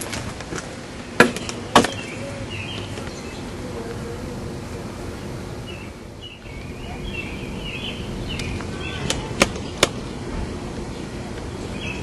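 Outdoor ambience with faint bird chirps, broken by sharp clicks in two close pairs, one pair about a second in and another near the end.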